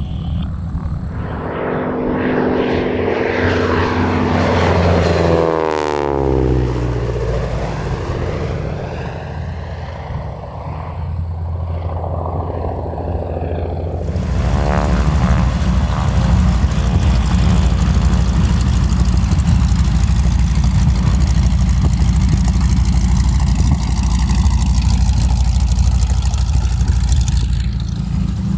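AT-6 Texan's radial engine and propeller passing overhead in a flyby: the sound swells, then drops sharply in pitch as the plane goes by and fades. About halfway through it cuts to a piston aircraft engine running steadily at close range.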